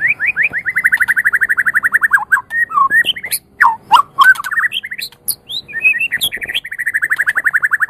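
White-rumped shama (murai batu) singing: a fast trill of rapidly repeated whistled notes, then a run of varied slurred whistles that glide up and down, and a second fast trill near the end.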